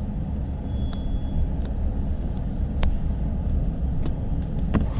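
Steady low rumble inside a car with the windows up, with a few faint clicks.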